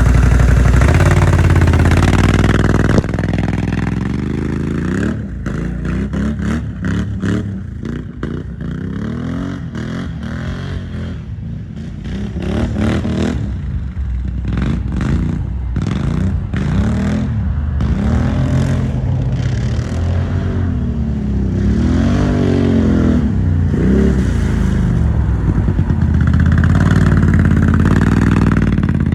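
2021 Can-Am Outlander 570's V-twin engine running through an aftermarket Big Gun slip-on exhaust, being revved over and over, the engine speed climbing and dropping in repeated blips, with steadier running at the start and near the end.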